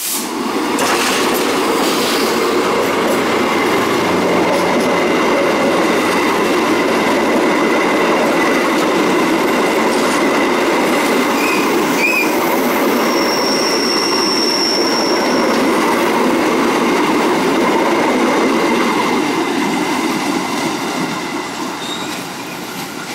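Diesel-hauled passenger train passing close by: the locomotive and carriages running over the rails with a dense clatter and a thin high wheel squeal, fading as the last carriage moves away near the end.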